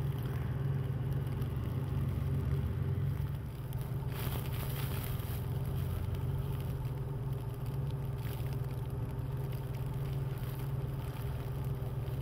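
A vehicle engine running steadily with a low hum, with a brief rush of hiss about four seconds in.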